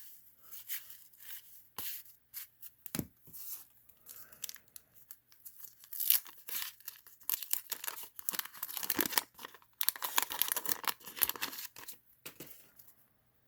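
Crinkling and tearing of trading-card packaging as basketball cards are handled, in a run of short, sharp rustles and crackles that is busiest in the second half.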